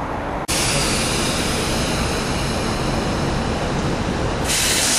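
Trains approaching through the station: a steady rushing rail noise that starts abruptly about half a second in, with a brighter hiss near the end.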